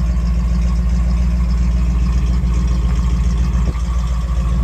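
The 428 V8 of a 1968 Shelby GT500 KR running steadily with a deep, even rumble, which briefly dips about three and a half seconds in.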